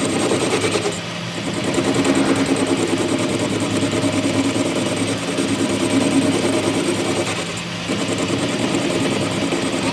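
An engine running steadily, dipping briefly in level about a second in and again about two seconds before the end.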